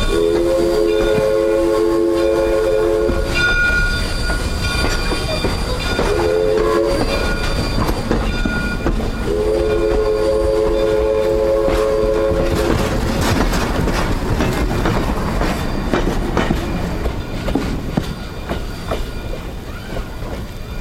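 Southern Railway No. 401's steam whistle sounds a chord of several notes: a long blast, a short one, then another long one. The locomotive and train run underneath, with clanking and clattering that grows rougher after the last blast and then eases off near the end.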